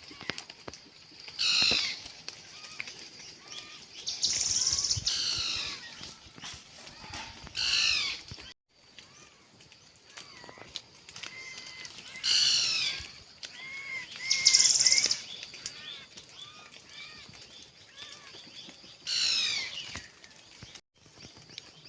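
A songbird singing: a phrase of quick, high, down-slurred notes repeated every few seconds, with softer chirps between the phrases.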